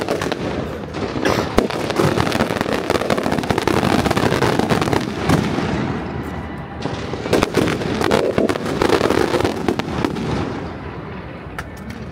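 Fireworks going off in a dense, continuous barrage of cracks and bangs, easing briefly about six seconds in and again near the end.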